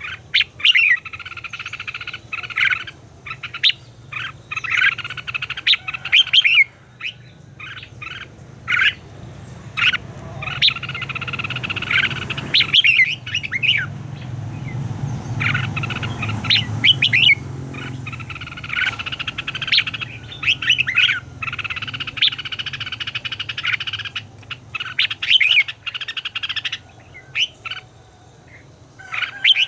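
Red-whiskered bulbul singing: bursts of quick, warbling phrases repeated with short pauses, over a low steady hum.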